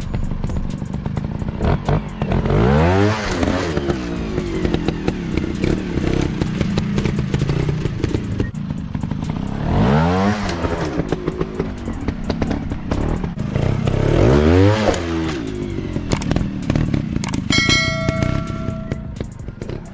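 Dirt bike engines revving hard three times, each rev rising and then falling in pitch, over a running engine and clattering. Near the end a brief steady high tone sounds.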